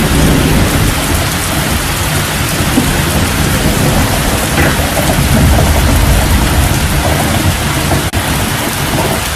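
Heavy downpour: a loud, steady rush of rain with a low rumble underneath.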